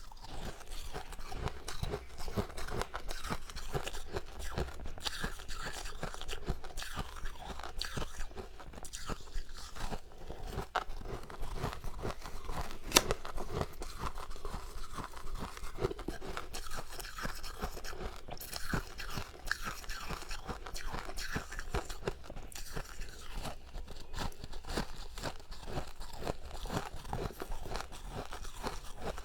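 Close-miked chewing and crunching of powdery freezer-frost ice, a dense run of soft crackling crunches with one sharper loud crunch about 13 seconds in.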